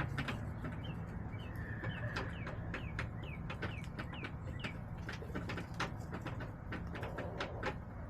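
Birds at a backyard chicken coop: a string of short, falling chirps repeating from about one to four seconds in. Many sharp ticks and a low steady hum run underneath.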